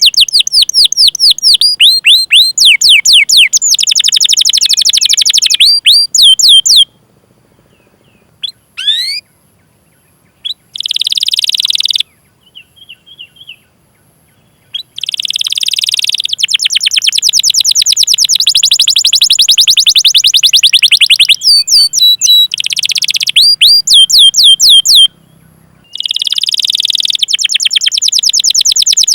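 Domestic canary singing: fast trills of rapidly repeated high, sweeping notes and long rolling phrases, broken by two pauses of a few seconds in the first half.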